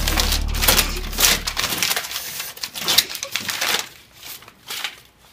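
Notebook-paper notes being pulled off a metal locker and crumpled up by hand: dense crinkling and rustling that thins out near the end.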